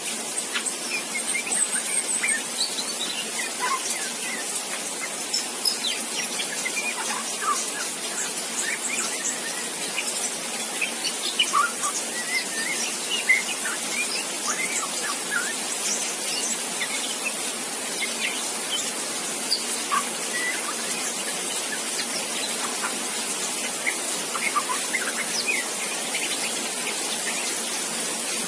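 Juvenile white-rumped shama (murai batu) practising its song: scattered soft chirps and short whistled notes, the halting 'riwik' subsong of a young bird learning to sing, over a steady high hiss.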